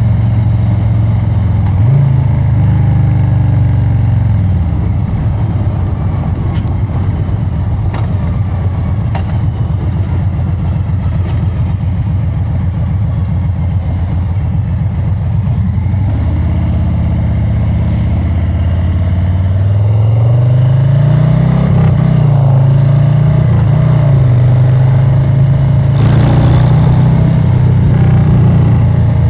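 Harley-Davidson Street Bob 114's Milwaukee-Eight 114 V-twin running through a new aftermarket exhaust while riding: a steady loud cruise, then the engine note climbs under acceleration about two-thirds of the way in, dips briefly at a gear change and settles at a higher steady pitch.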